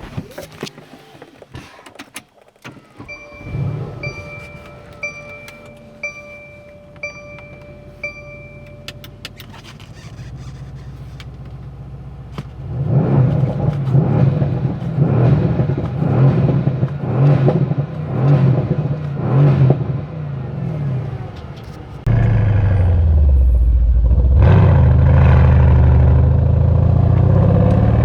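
Mercedes-AMG C63 S coupe from inside the cabin: a knock, then a warning chime repeating about once a second, then the V8 running with a pulsing note. Near the end the engine suddenly gets much louder and its pitch rises and falls with the revs.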